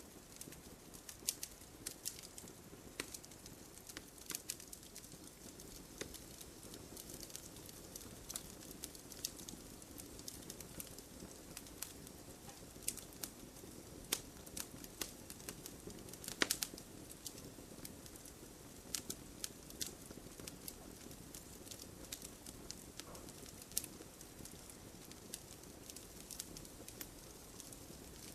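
Wood campfire crackling, with irregular sharp pops over a steady low hiss of burning, and a louder pop about halfway through.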